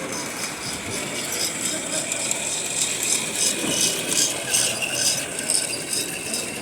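Lionel Rio Grande toy train set running on tubular track: a steady mechanical rattle with even, repeated clicking.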